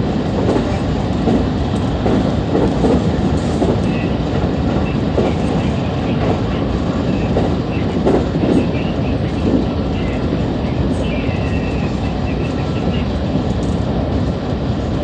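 JR West 223 series electric train running at speed: a steady rumble of wheels on rail with irregular clacks over the rail joints.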